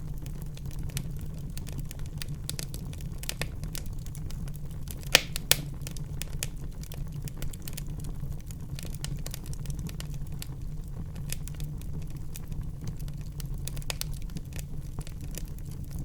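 Wood fire burning in a fireplace: a steady low rumble with constant irregular crackling, and two loud pops about five seconds in.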